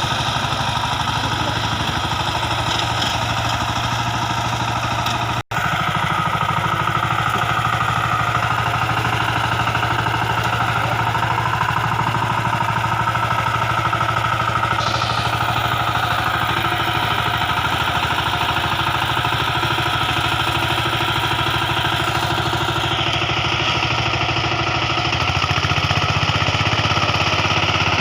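VST Shakti 130 DI power tiller's single-cylinder diesel engine running steadily. It drops out for an instant about five seconds in and runs a little louder near the end.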